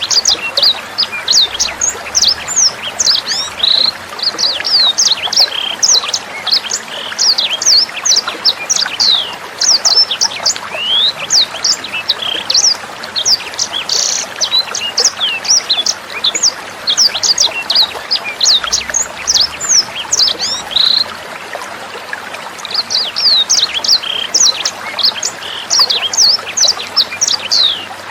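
Sanger bird singing a fast, nearly continuous run of sharp, high sweeping notes, with a short lull about three-quarters of the way through, over trickling water.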